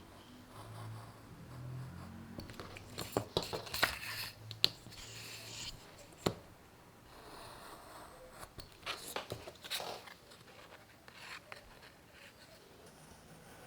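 Hand work on bicycle parts: scraping and rustling with a series of sharp clicks and taps, busiest a few seconds in and again past the middle, with one louder knock in between.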